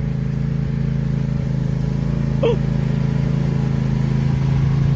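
An engine running steadily with a low, even drone. A single short squeal comes about halfway through.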